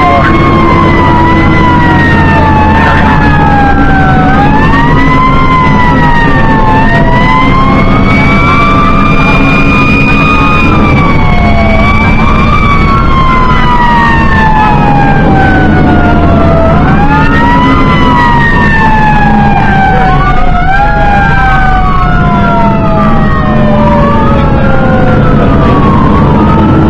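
Fire engine sirens wailing, several slowly rising and falling tones overlapping, some winding down in long falling sweeps, over the fire engine's engine running steadily while it responds to a call.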